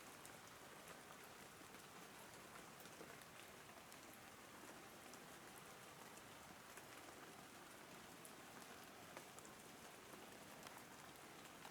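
Steady, faint rain, with many small drops ticking on surfaces.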